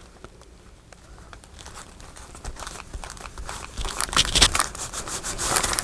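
Paper rustling and crinkling as small paper pieces are handled and pressed onto a journal page, nearly quiet at first and growing busier from about two seconds in.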